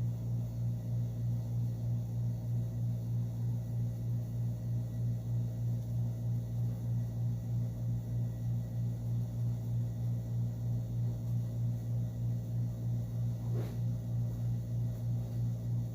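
Steady low hum that pulses regularly, about three times a second, with a faint short sound near the end.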